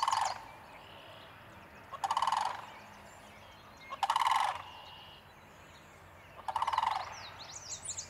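A bird gives a loud, rapid rattling call four times, about two seconds apart, while smaller birds chirp faintly in the background.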